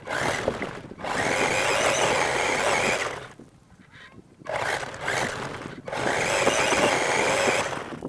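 R/C monster truck motor whining under throttle in two long bursts of about two seconds each, with a short gap between them.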